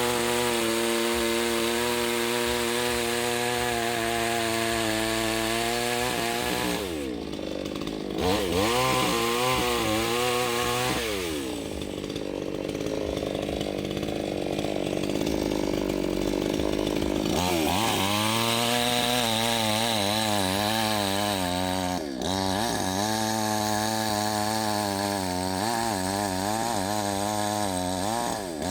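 Chainsaw running at high revs, cutting through the trunk of a fallen tree. It drops back briefly about seven seconds in and for several seconds in the middle, then revs up again.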